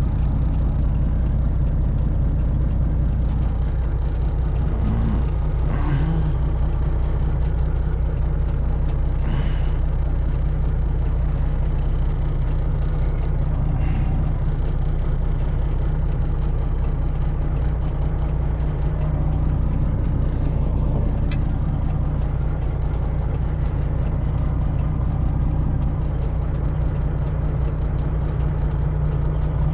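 Semi truck's diesel engine running slowly at low revs, heard from inside the cab as a steady low drone while the truck is manoeuvred into a loading dock.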